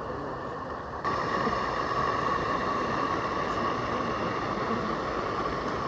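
Steady hiss of steam from a Roundhouse 32mm narrow-gauge live steam locomotive, stepping up suddenly in loudness about a second in.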